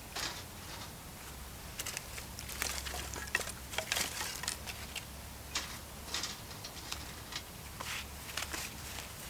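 Wood campfire crackling, with irregular sharp pops and snaps, the loudest about three and four seconds in, over a faint low hum.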